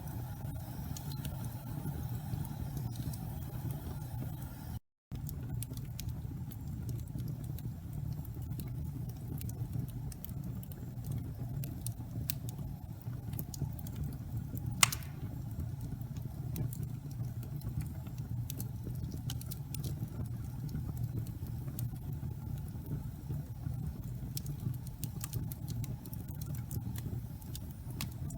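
Wood fire burning in a fireplace: a steady low rumble of the flames with scattered faint crackles and one sharper pop about halfway through. The sound drops out for a split second about five seconds in.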